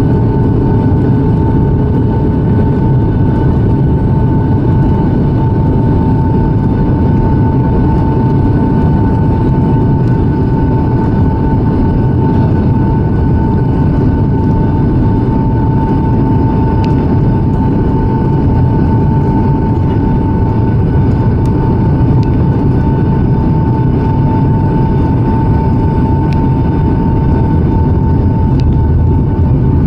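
Boeing 757-200 airliner heard from inside the passenger cabin: a steady, deep rumble of engines and rushing air, with a steady high whine over it.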